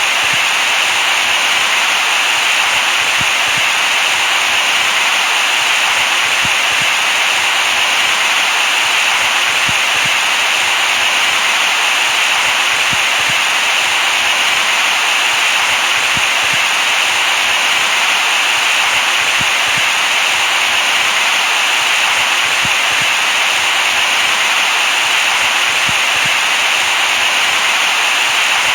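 Steady synthetic hiss-like white noise, brightest in the upper midrange and thin in the bass, with no change in level.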